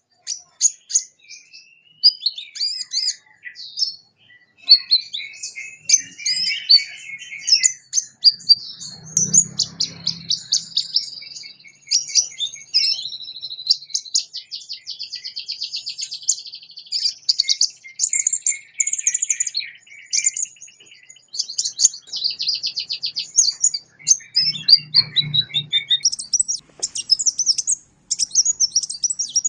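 Sunbird song: a continuous run of high chirps, twitters and fast trills with hardly a pause.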